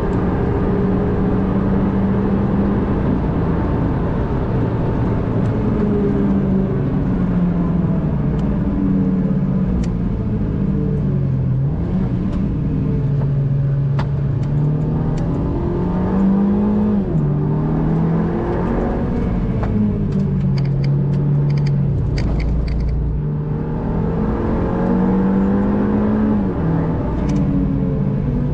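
MINI John Cooper Works GP3's turbocharged four-cylinder engine pulling hard through the gears, its pitch climbing and then dropping at each shift, several times over. A run of sharp crackles comes about two-thirds of the way through.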